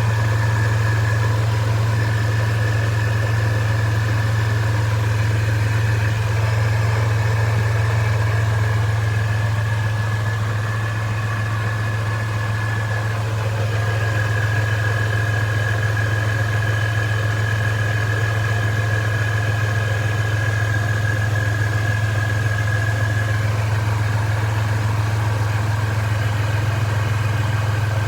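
Toyota 3.4-litre V6 fitted with a supercharger idling steadily after a cold start: an even low engine hum with a thin, steady high whine above it. The owner suspects a ticking from the supercharger, PCV valve or valvetrain that comes in a few minutes after startup.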